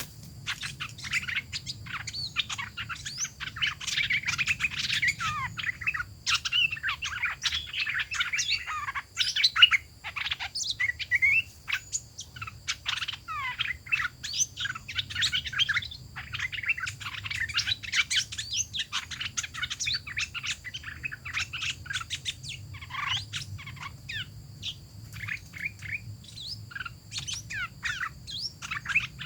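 Hoạch thơm songbird singing as a trap decoy: a long, rapid run of varied chirps, whistles and trills with brief pauses, over a steady low hum.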